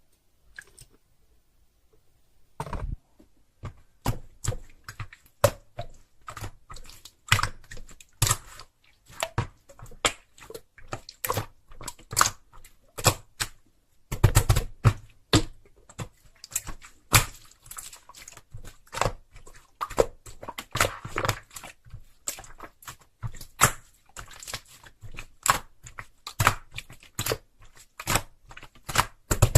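Slime being played with by hand, making a fast, irregular series of sharp wet clicks and pops that starts about three seconds in.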